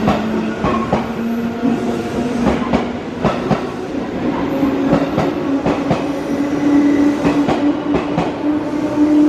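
Electric train moving along the platform track, its wheels clicking over rail joints and points, with a steady motor tone that steps up in pitch about four seconds in.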